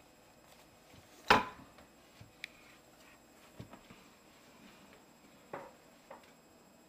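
Handling of a countertop rotisserie oven as the cooked chicken is taken out: one sharp knock about a second in, then a few light clicks and taps.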